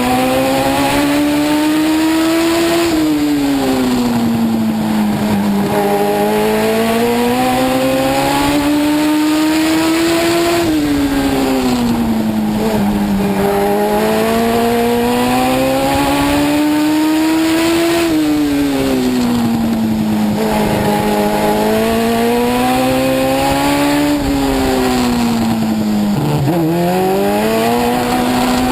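Legend race car's Yamaha four-cylinder motorcycle engine heard from inside the car on an oval: it climbs steadily in pitch down each straight, then drops off as the driver lifts into the turn, about every seven to eight seconds. There is a quick sharp dip in revs near the end.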